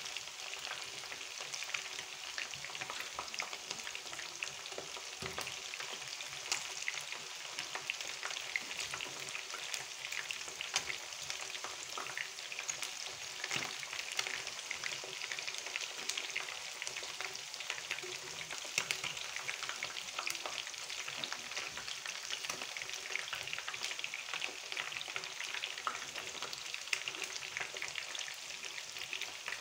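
Chicken pieces frying in hot oil in a pan: a steady crackling sizzle with many small pops.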